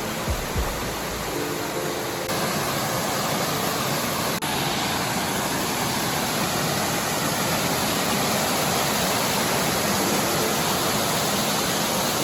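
Creek water rushing over a small waterfall: a steady, loud hiss of falling water that grows a little louder about two seconds in.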